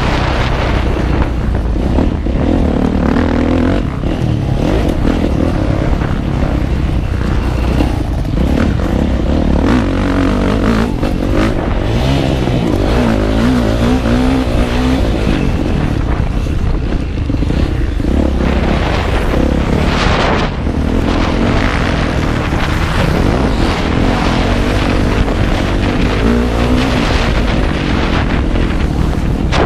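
Motocross bike engine ridden hard, its pitch rising and falling repeatedly as the throttle is opened and closed, heard from on board the bike.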